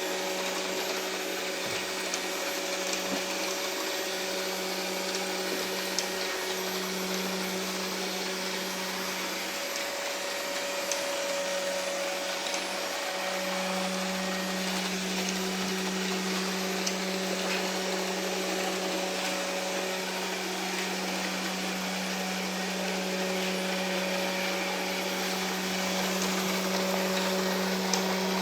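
Ilife V55 Pro robot vacuum cleaner running: a steady whirring motor hum with a low tone that wavers during the first half and then holds steady, with a few faint light ticks.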